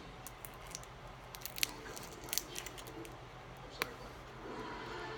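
Small sharp clicks and crinkles of plastic packaging being handled and pried open to get at a lip liner, a cluster of snaps in the middle and one more near the end, over a low steady hum.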